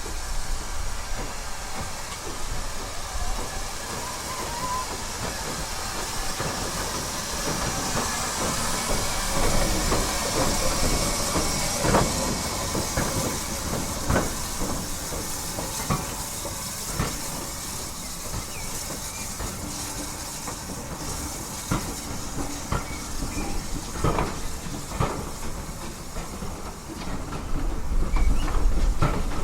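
Heritage train pulling out of the station: a hiss swells, then the wheels click over the rail joints about once a second as the carriages roll past, with a low rumble rising near the end.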